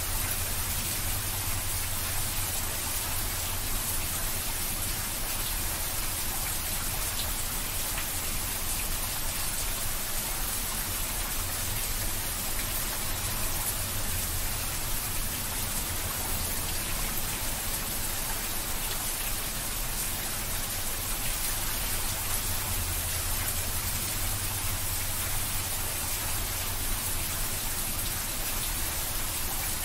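Heavy rain pouring steadily onto a flat rooftop and the surrounding trees: a dense, even hiss of drops that never lets up, with a steady low rumble underneath.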